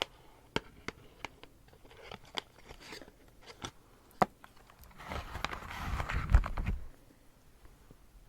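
Close-miked ASMR handling sounds: a series of sharp, separate taps and clicks, then, about five seconds in, nearly two seconds of dense crunching with a heavier thump near its end.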